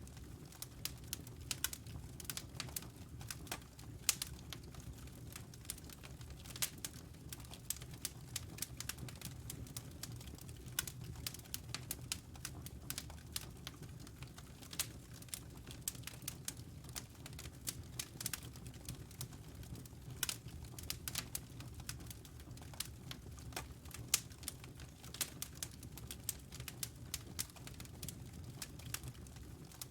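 Wood fire crackling in a fireplace: irregular sharp pops and snaps, several a second, over a low steady rumble, with a couple of louder pops about 4 and 24 seconds in.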